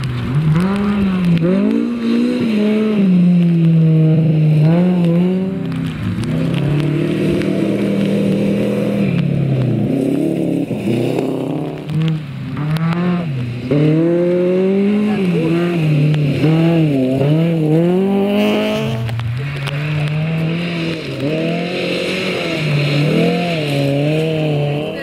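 Rally car engine revving hard on a gravel stage, its pitch climbing and dropping sharply again and again through the gears and throttle lifts.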